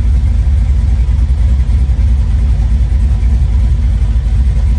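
Aluminum 6.0-litre LS V8 in a 1965 Chevy Nova idling steadily on its first run after the engine swap.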